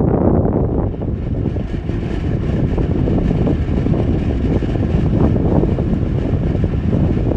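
Wind blowing and buffeting the microphone: a steady low rumble with a fainter hiss above it, dipping briefly about a second in.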